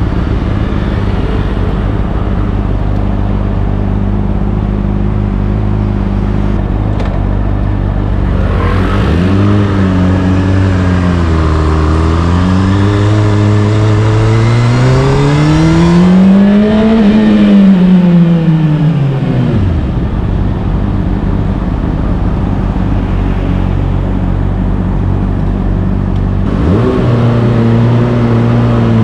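Honda CBR600RR inline-four engine through an Akrapovic exhaust, running at a steady low note at first. About nine seconds in it begins rising and falling in pitch as it accelerates, climbing to a high peak a little past halfway, then dropping back to a steady note before rising again near the end.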